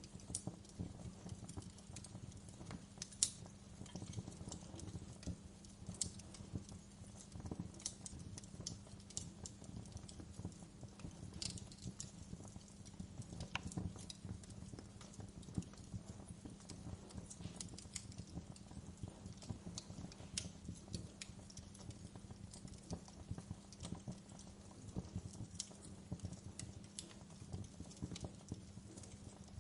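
Wood fire crackling in a fireplace: irregular sharp pops and snaps, one louder pop about three seconds in, over a steady low hum.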